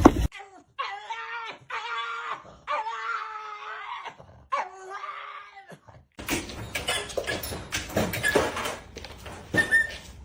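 A dog giving four long, drawn-out whining cries, each held at a steady pitch. After that comes a stretch of clattering and knocking.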